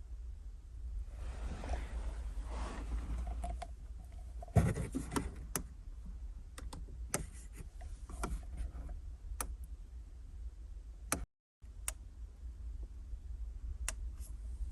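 Small objects being handled in a cramped space: rustling, a single loud knock about four and a half seconds in, then a string of sharp clicks and taps, over a steady low rumble.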